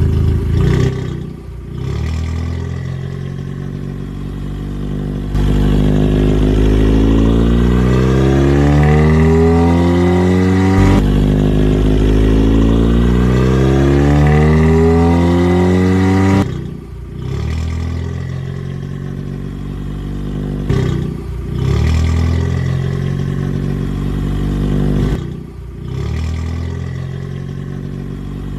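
Motor vehicle engine sound revving up and down. From about 5 to 16 s two engines are heard at once, their pitches rising and falling across each other, and the sound dips briefly a few times.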